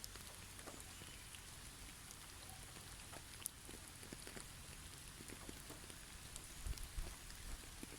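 Snow falling in a forest: a faint steady hiss scattered with many small soft ticks and patters of snow and drips landing on branches. A faint high bird chirp comes about a second in.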